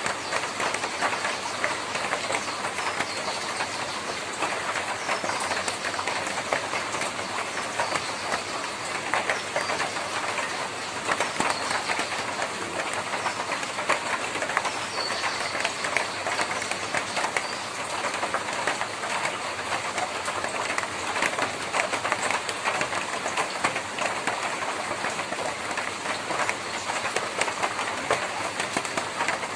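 Rain falling on a tin roof: a steady, dense patter of drops striking the metal sheets.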